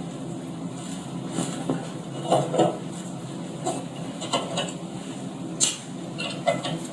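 Scattered knocks and light clatter of objects being handled, about seven in all with a pair midway and a sharp one near the end, over a steady low hum.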